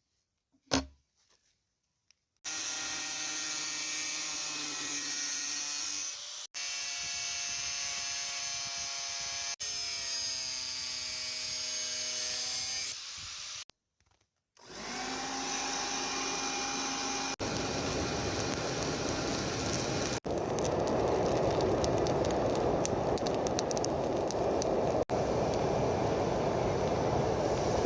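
An electric power tool's motor running steadily with a pitched hum, in several short clips cut off abruptly. After a short gap it spins up again, and a louder, rougher grinding noise takes over in the last ten seconds.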